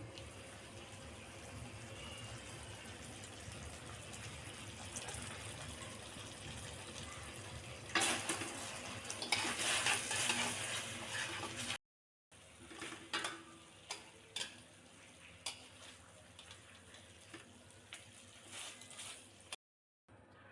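Chicken braising in a pan with a steady sizzle. About eight seconds in, a louder stretch of a utensil stirring and scraping in the pan. After an edit, scattered sharp clinks of the utensil against the pan.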